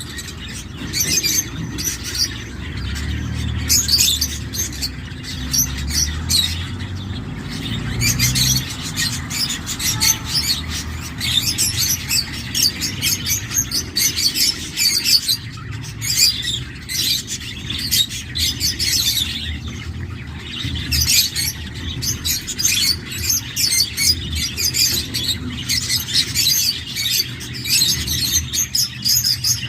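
Cockatiel chicks calling in the nest: short, high-pitched cheeps repeated rapidly in bursts, with brief pauses between runs.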